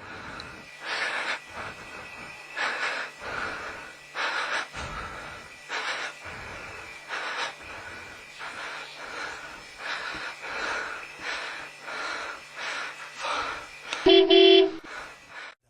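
Mother raccoon hissing over and over in short breathy bursts, about one and a half a second, defending her young. About fourteen seconds in, a short loud honk cuts across it.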